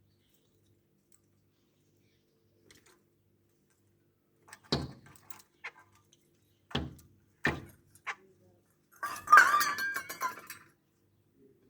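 Three sharp knocks, then a harsh squawk from a pet bird lasting about a second and a half near the end.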